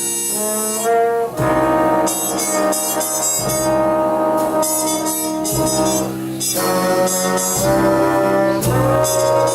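Big band playing, with brass holding sustained chords and a trumpet on the melody.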